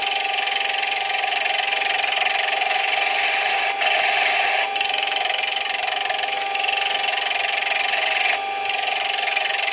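Wood lathe turning an oak bowl blank while a turning tool takes shallow, easy cuts: a steady hum under a continuous cutting hiss, with brief breaks about 4 and 8.5 seconds in where the tool comes off the wood. The cuts are kept light because the blank is only jammed against the spur drive without a good grip.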